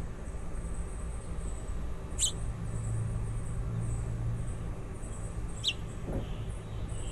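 Two short, high-pitched bird chirps, about three and a half seconds apart, from baby birds at the nest. They sit over a steady low rumble and a faint, thin high-pitched sound that comes and goes.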